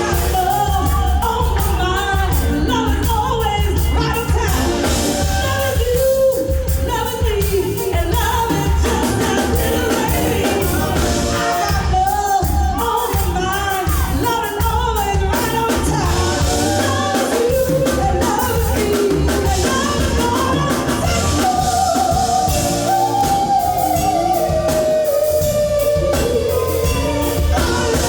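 A singer performing a song live with a band, with drums and bass steady underneath. About three-quarters of the way through she holds one long note that slides down.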